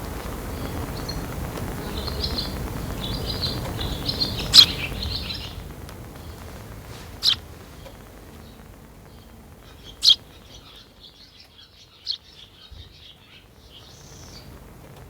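Sparrow chirping: runs of twittering broken by four sharp, loud chirps a few seconds apart, the loudest about four and a half seconds in. A low background rumble fades out about six seconds in.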